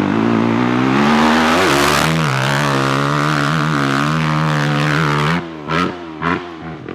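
Dirt bike engine running hard close by, its pitch wavering with the throttle, then dropping away suddenly about five seconds in as the bike shuts off during the jump.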